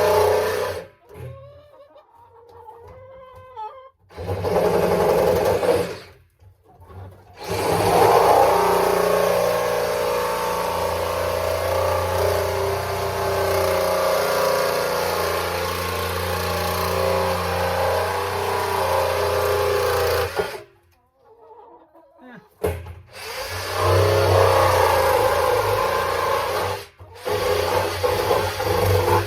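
Power tool cutting a hole in the side of a water drum. It runs in four bursts: a short one, then a long steady run of about thirteen seconds, then two more short runs near the end, with brief stops between them.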